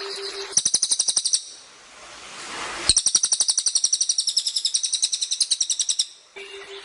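A songbird's rapid chattering trills: a short burst of sharp repeated notes about a second long, then after a brief rising hiss a longer three-second trill at about a dozen notes a second.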